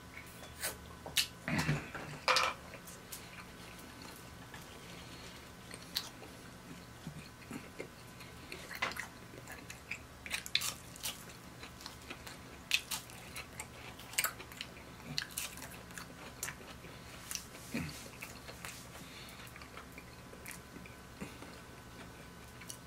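Close-miked chewing and mouth sounds of a person eating, with scattered short smacks and clicks and a few louder sounds about two seconds in.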